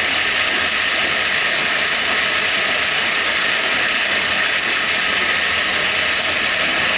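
Milling machine running a cut to open up a hole in a tooling plate, a loud steady hiss.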